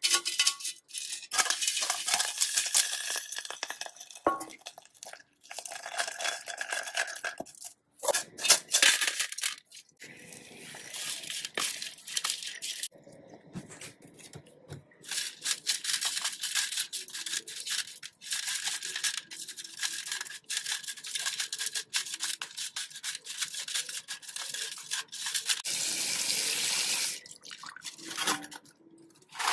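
Rapid scrubbing strokes on a hard surface, coming in several runs of a few seconds each with short breaks between them.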